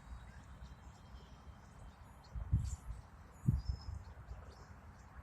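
Wild birds chirping with short high calls, on and off. Two brief low thumps come about two and a half and three and a half seconds in.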